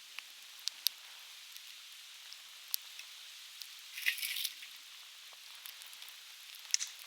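Conifer logs burning in a campfire, crackling with scattered sharp pops over a steady hiss, with a brief flurry of pops about four seconds in and another near the end.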